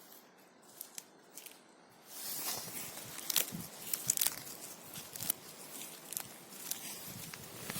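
Bow drill being worked: a canvas-cord bow saws back and forth, spinning a dry wooden spindle against the wood with a scratchy, rasping friction noise. It starts about two seconds in and goes on in uneven strokes, after a few faint clicks of handling.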